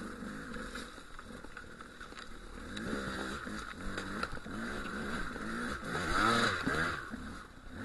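Dual-sport motorcycle engine running on a rough trail, its revs rising and falling again and again from a few seconds in. A few sharp ticks sound along the way.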